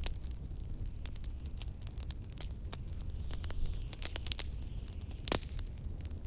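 Wood fire crackling with frequent small pops and one louder pop about five seconds in, over a steady low rumble of wind.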